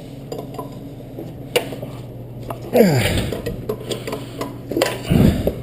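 Metal hand tools clinking and knocking against engine-bay hardware, with a few sharp clicks, a short falling squeal about three seconds in and a dull thump near the end, over a steady low hum.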